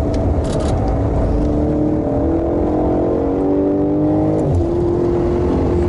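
BMW M5's twin-turbo V8 engine pulling under acceleration, its note rising steadily for about three seconds, then dropping sharply at an upshift about four and a half seconds in and holding steady after.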